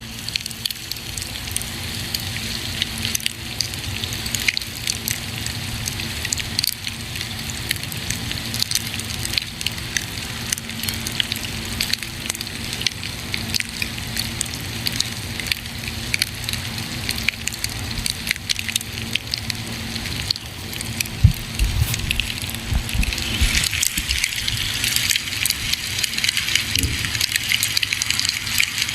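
Campfire burning, with a steady hiss and many sharp crackles and pops throughout. A few low thuds come about two-thirds of the way in.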